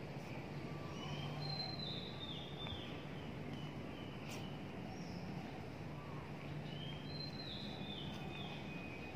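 A songbird sings two short phrases of high whistled notes that step down in pitch, one early and one later, over a faint steady low hum of background noise.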